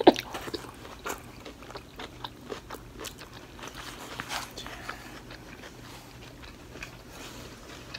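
Chewing and biting of stuffed green bell pepper close to the microphone, with scattered short wet mouth clicks.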